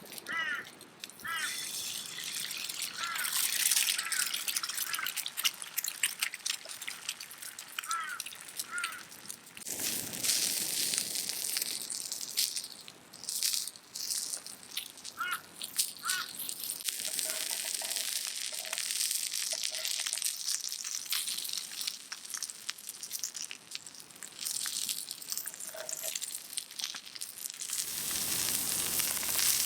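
Food sizzling and frying over hot campfire coals, a steady hiss with short chirps now and then; the sound shifts abruptly about ten seconds in and again near the end.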